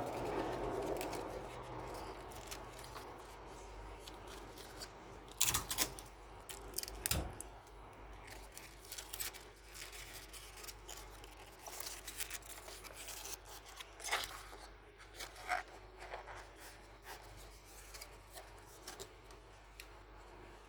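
Scissors cutting paper, with paper handling and rustling between the cuts; a few sharp snips stand out, the loudest about five and a half and seven seconds in.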